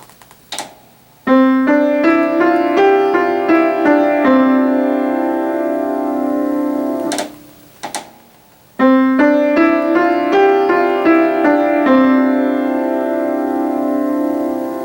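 Piano playing the same short melodic phrase twice, about six seconds each with a short pause between. Each note is struck clearly and left to ring, a melody voiced so that its strike and resonance stand out.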